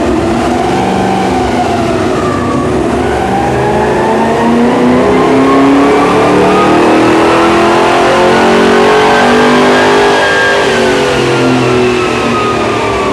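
Car engine doing a power run on a chassis dyno. After a short dip near the start, the engine note climbs steadily for about eight seconds to a peak, then falls away as the revs drop.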